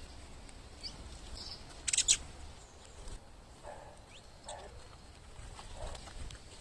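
Small wild birds at a fruit-and-seed feeding box: scattered short, high chirps, with a brief loud rustling burst about two seconds in and a few softer scuffs later.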